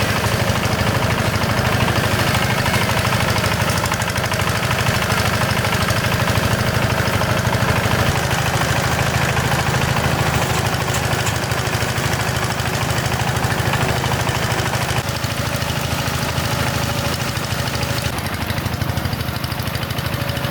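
Small engine running steadily, with an even, unbroken drone.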